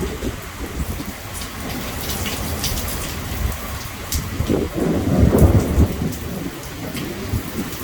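Heavy rain pouring steadily, with sharp drops clicking against nearby surfaces. About halfway through, a rumble of thunder swells up for a second or two and fades back under the rain.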